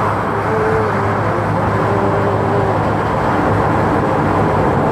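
Cargo ship's machinery running with a loud, steady drone and a constant low hum.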